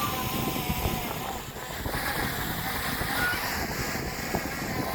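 Strong gusting wind buffeting the microphone, a rough continuous rumble, with faint brief higher tones over it.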